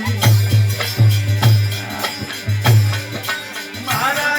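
Instrumental interlude of Indian folk music: a drum beating with deep bass strokes and sharp slaps, over jingling percussion. A voice comes back in near the end.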